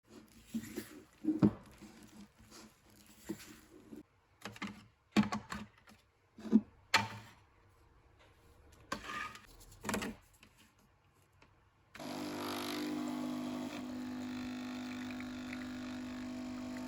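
A series of sharp clicks and knocks from objects being handled. About twelve seconds in, a motor starts suddenly and runs with a steady, even hum.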